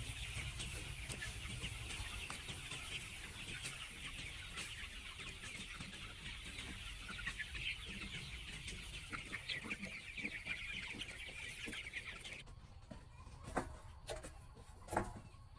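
A flock of capons calling all at once: a dense mass of overlapping short clucks and peeps. It stops abruptly near the end, leaving a few sharp knocks.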